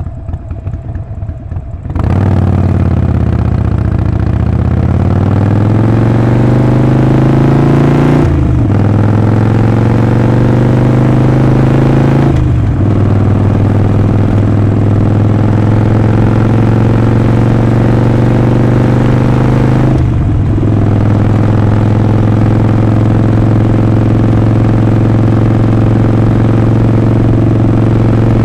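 Harley-Davidson Sportster 48's air-cooled 1200 cc V-twin running under way on a ride. It is quieter for the first couple of seconds, then gets loud and climbs in pitch, with short breaks about 8 and 12 seconds in that sound like upshifts. Another short dip comes about 20 seconds in, and after that it holds a steady pitch at cruising speed.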